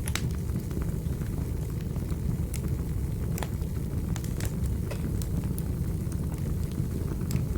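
Wood fire crackling in a fireplace: a steady low roar of the flames with scattered sharp pops and clicks at irregular intervals.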